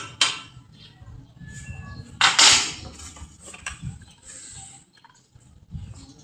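Metal parts clinking and knocking as they are handled in fabrication work, with a louder scrape about two seconds in.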